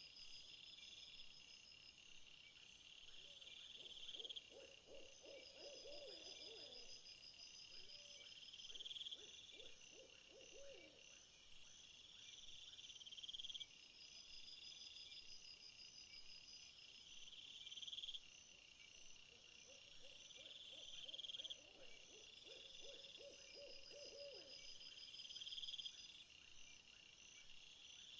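Faint chorus of trilling insects, with one trill swelling and breaking off about every four to five seconds. Twice, once a few seconds in and again past the middle, a lower, rapidly trilled animal call joins in.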